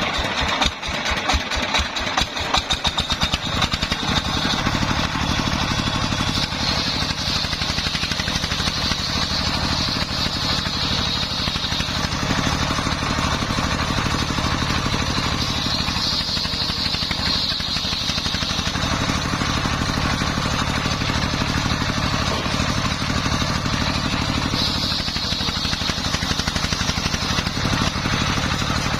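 Dongfeng 24 hp single-cylinder diesel engine powering a homemade circular saw. Its firing beats start separate and slow, quicken over the first few seconds, then settle into a steady run. A high whine above it swells and fades several times.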